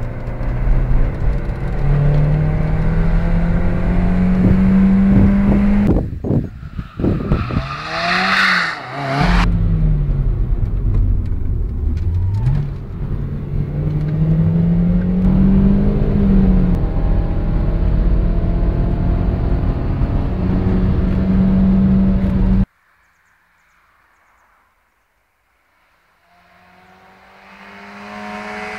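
Car engine heard from inside the cabin, revving up through the gears and dropping back in pitch at each change, with a brief high squeal about eight seconds in. It cuts to near silence for about three seconds, then another car's engine is heard approaching, growing louder near the end.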